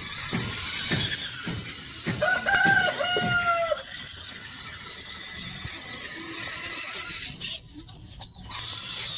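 A rooster crows once, a pitched call lasting under two seconds that drops in pitch at the end, over a series of regular clicks at about two or three a second.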